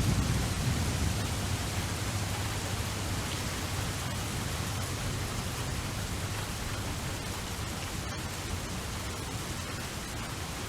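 Steady rain, an even dense hiss, with a low rumble dying away about a second in.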